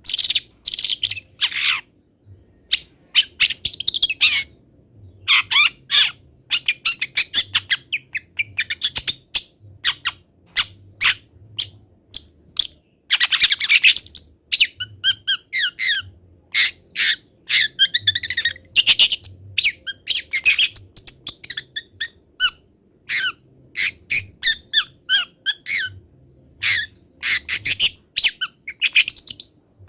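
Long-tailed shrike (cendet) singing a fast, varied song of short chattering and squawking notes, strung with mimicked calls of other wild birds.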